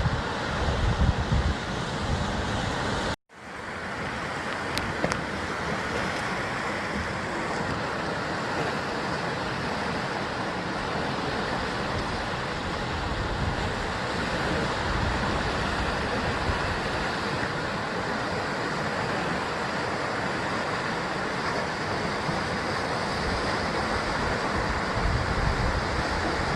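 Sea surf washing steadily against the rocky basalt coastline of Jusangjeolli, with low rumbles of wind on the microphone near the start and near the end. The sound cuts out abruptly for a moment about three seconds in and fades back up.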